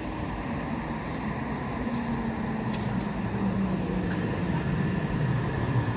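Underground U-Bahn train pulling into the station: a steady rumble that grows slowly louder, with a low hum that falls a little in pitch.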